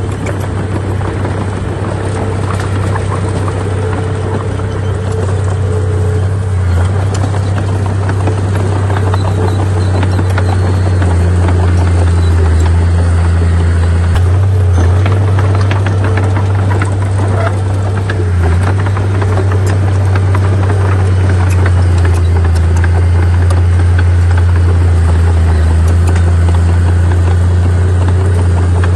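Bulldozer's diesel engine running steadily under load, a loud low hum with brief dips, with faint clatter above it.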